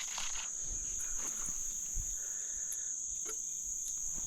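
Steady, high-pitched chorus of insects such as crickets, one unbroken drone, with a few faint ticks over it.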